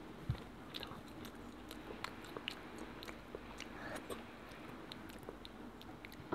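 A child chewing and biting chicken close to a clip-on microphone: faint, scattered wet clicks and smacks from the mouth, with one soft low knock near the start.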